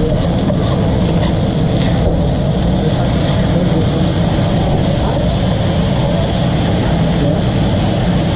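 Steady, loud mechanical drone with a low rumble and a hiss over it, unbroken throughout, typical of running food-truck kitchen equipment such as an extractor fan or generator.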